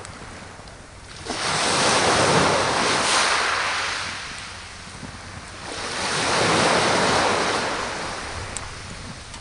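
Sea waves breaking on the shore twice: the first surges in sharply about a second in and the second about five and a half seconds in, each washing up and fading away.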